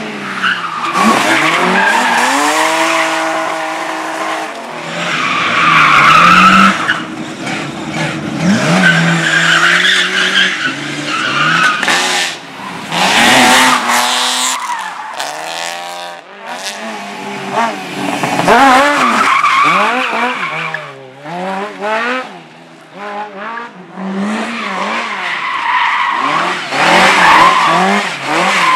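A car driven hard through tight slalom turns: the engine revs up and falls away again and again, with tyres squealing through the turns.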